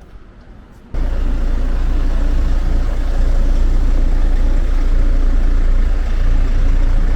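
Loud, steady bus engine rumble with road noise, starting abruptly about a second in.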